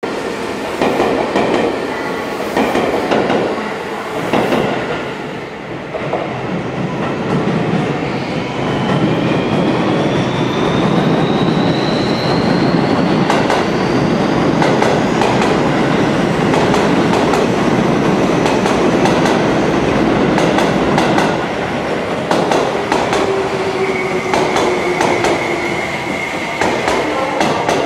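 Seibu 20000 series electric train pulling into the station: a steady rumble with wheels clicking over the rail joints, loudest as the cars pass. A whine rises in pitch midway, and a lower whine falls near the end as the train slows for its stop.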